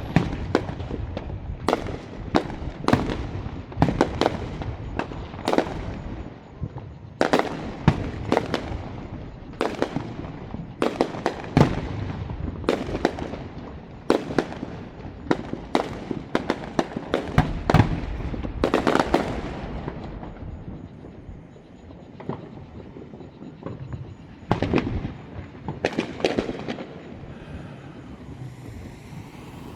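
Fireworks display: aerial shells bursting one after another in sharp bangs, each trailing off in an echoing rumble, thinning out after about twenty seconds.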